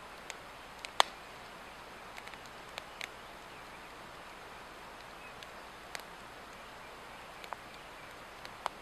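Swedish torch, a split log burning from the inside, crackling: irregular sharp pops and snaps over a steady hiss, the loudest pop about a second in.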